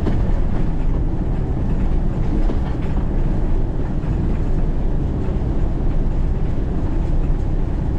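Steady low rumble of a semi-truck cab at highway speed: the diesel engine's drone mixed with tyre and road noise, with a few faint rattles.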